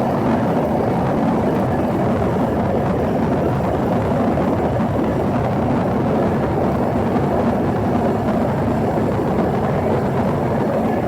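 Steady cabin noise inside an Embraer ERJ-145 regional jet in flight: the even rush of airflow and the drone of its rear-mounted turbofan engines, heavy in the low end with a faint steady hum.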